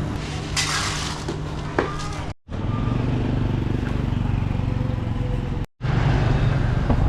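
Street traffic with motor engines running close by, steady throughout, with a short hiss about a second in. The sound cuts out suddenly twice for a moment.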